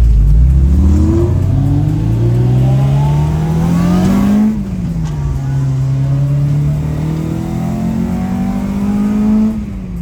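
Car engine accelerating hard: its pitch climbs for about four seconds, drops sharply at an upshift, climbs again and drops at a second shift near the end.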